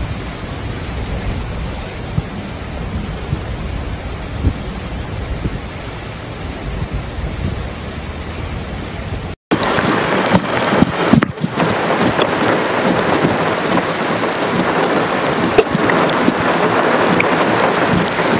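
Heavy rain pouring down. For the first half a deep steady rumble lies under it; after a cut about nine seconds in, it becomes a louder, brighter hiss of rain on the ground, with many sharp little drop hits.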